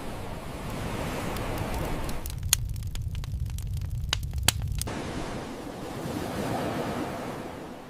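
Steady wind noise of a snowstorm. Between about two and five seconds in, the hiss gives way to a low rumble broken by a string of sharp cracks, two of them louder, before the wind noise returns.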